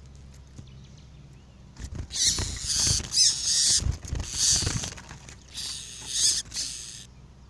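Double-collared seedeater (coleiro) singing: several bursts of rapid, high twittering song starting about two seconds in, with low thumps underneath.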